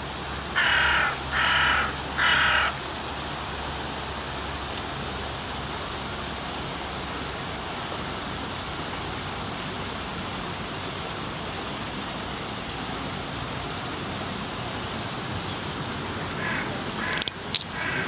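Three loud, harsh bird calls in quick succession in the first few seconds, then a steady hiss of background noise. A couple of sharp clicks come near the end.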